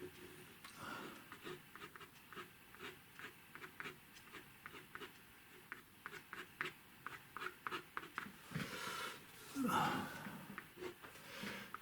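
The edge of a card scraping and tapping on wet watercolour paper to scratch out grasses, in a run of short, quick scratches several times a second. There is a louder, longer rustle about nine seconds in.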